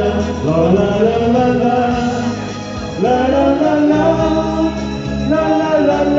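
A man singing a wordless 'la la la' melody over instrumental backing.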